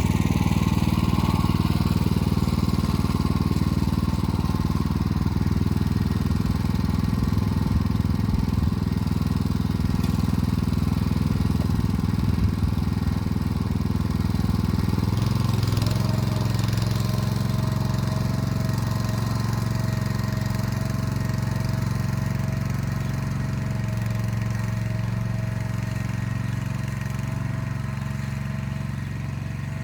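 Motor Sich walk-behind tractor engine running steadily under load while pulling an arrow-type hiller through the rows. Its note shifts about halfway through, and a thin steady whine joins it from then on.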